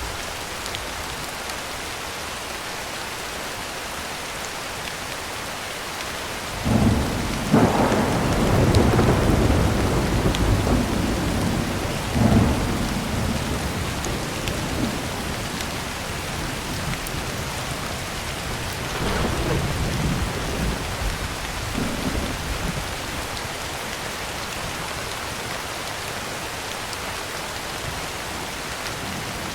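Heavy rain falling steadily on a tin roof. About seven seconds in, a thunderclap breaks in suddenly and rolls on for several seconds, with another sharp crack around twelve seconds, then a softer rumble of thunder near twenty seconds.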